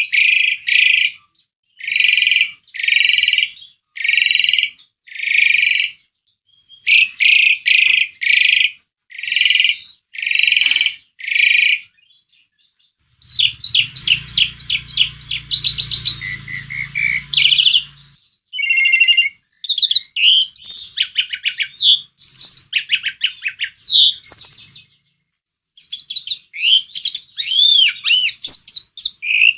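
Jalak suren (Asian pied starling) singing: a string of harsh, scratchy calls about once a second, then after a short pause a fast rattle of notes, followed by a varied mix of whistles and gliding whistled notes.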